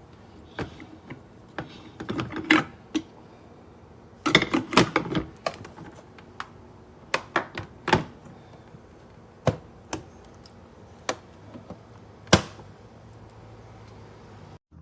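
An irregular series of sharp clicks and knocks from hard objects being handled, bunched into two clusters in the first half, then scattered single clicks with one loud knock near the end.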